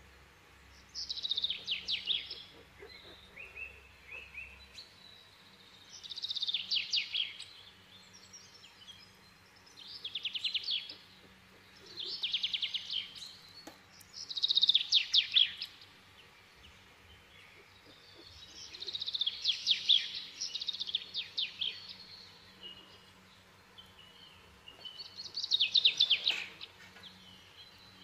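A bird singing: about seven short, rapid trilled phrases, one every few seconds.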